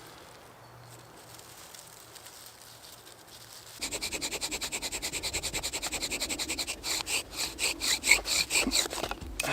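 Pine bow-drill set working: the spindle is spun in the hearth board with fast, even squeaky rubbing strokes starting about four seconds in. Near the end the strokes turn slower, louder and less even.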